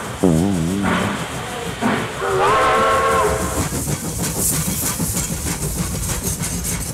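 Train sound effects: a brief wavering low tone near the start, then a train whistle blowing once, rising and then held for about a second. After that comes the steady chugging rattle of the train running along the track.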